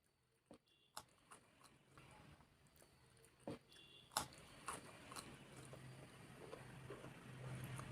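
Faint eating sounds: scattered soft clicks and smacks of chewing, over a low hum that grows louder toward the end.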